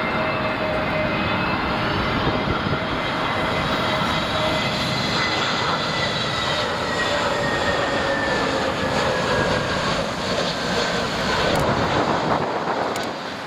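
Airbus A320neo jet airliner passing by, its engines giving a steady rush with whining tones that slowly fall in pitch as it goes past.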